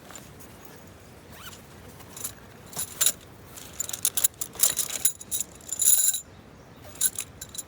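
Metal objects clinking and jangling in a quick run of rattles lasting about four seconds, with a couple more clinks near the end.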